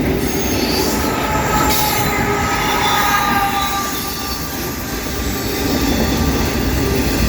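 Loaded autorack freight cars rolling past close by: a steady rumble of steel wheels on rail with a high wheel squeal ringing over it, the squeal fading about four seconds in.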